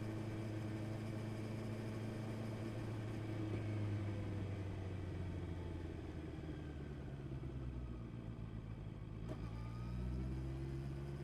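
Honda CB650R's inline-four engine running under way, easing off in the middle, then rising in pitch near the end as it accelerates. A brief click about nine seconds in.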